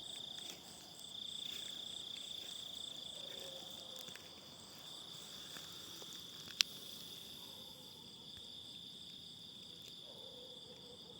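Crickets chirring in a steady high-pitched chorus, with one sharp click about six and a half seconds in.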